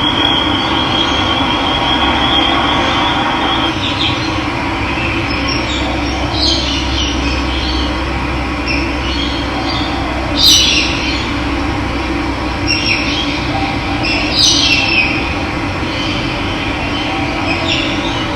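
Steady rushing of running water, with birds calling over it in short high chirps every few seconds, the loudest about ten seconds in. A thin, steady high trill runs through the first few seconds.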